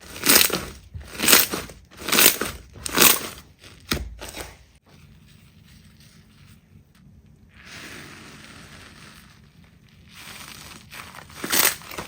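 Slime being squeezed and pressed by hand, with crackling squishes about once a second for the first three seconds. A sharp click comes near four seconds, then a quiet spell and a couple of seconds of soft hissing before the rhythmic squeezing starts again near the end.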